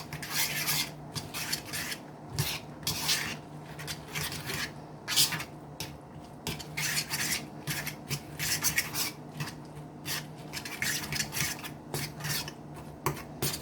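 A utensil stirring and scraping against a mixing bowl, with quick irregular strokes, as a mayonnaise dressing with relish, celery and onion is mixed together.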